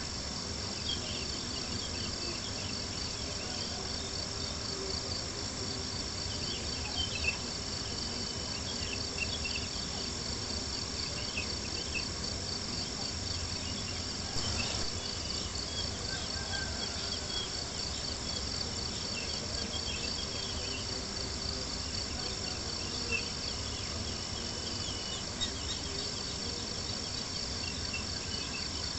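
A chorus of crickets chirping in a steady, fast pulse, with a few sharp pops from a crackling campfire and a low steady rush underneath.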